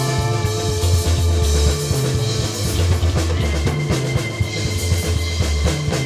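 Live psychedelic rock band playing an instrumental passage: full drum kit, bass guitar and sustained guitar or keyboard tones, with no vocals.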